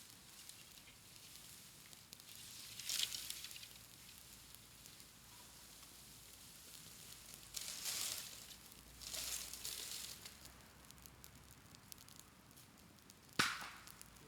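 A bamboo bonfire crackling, with three rushes of high hissing, about a second each, and one sharp crack near the end.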